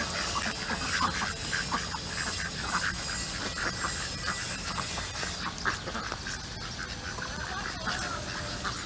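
A flock of ducks quacking, many short calls overlapping and repeating, as they crowd in to be fed.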